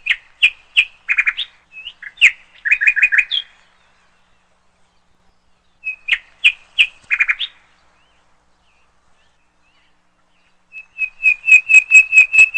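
A songbird singing in three separate phrases of sharp chirps and short trills, with quiet pauses between them. The last phrase is a quick, even run of repeated notes, about four a second.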